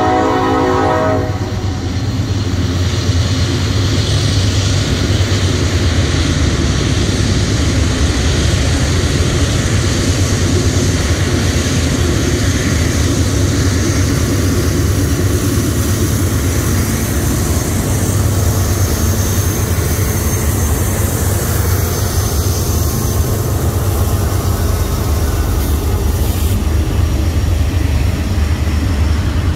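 A freight locomotive's multi-chime horn sounds a chord that ends about a second in. Then Norfolk Southern and Canadian Pacific diesel locomotives pass with a loud, steady low drone, followed by covered hopper cars rolling by on the rails.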